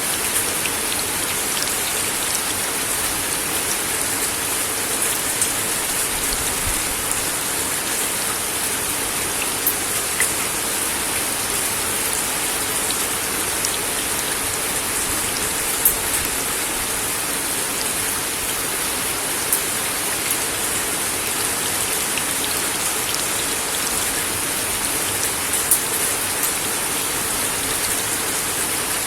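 Steady rain falling on a wooden deck, an even hiss with scattered sharper ticks of single drops striking the boards.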